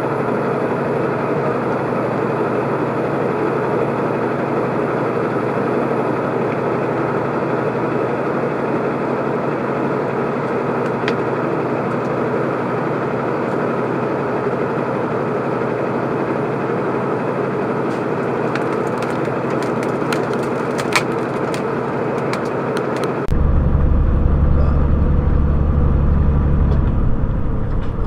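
Steady road and engine noise of a moving vehicle as picked up by a dashcam, with a few sharp cracks about three-quarters of the way in. Near the end it switches abruptly to a louder, deeper rumble.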